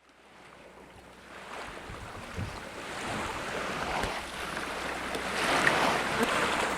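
Rigid inflatable boat underway: a rush of water against the hull and wind, fading in from silence and growing steadily louder.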